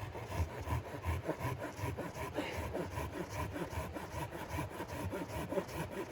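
Hand saw cutting through wood in quick, even back-and-forth strokes, about three a second, starting abruptly.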